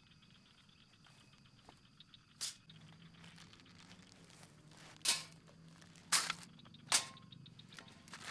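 Four short, sharp crunching or crinkling noises, one about two and a half seconds in and three close together in the second half, over a faint low hum.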